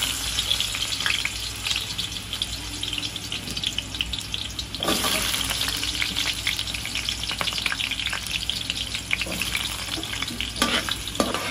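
Cubed carrots sizzling in hot oil in a wok, a dense hiss full of small pops. The sizzle grows louder about five seconds in.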